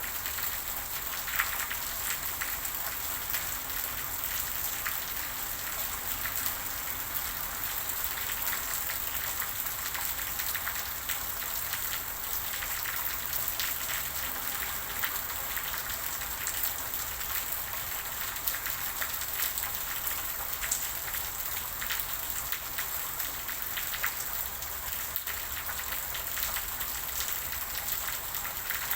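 Steady rain falling, with many separate drop patters over an even hiss.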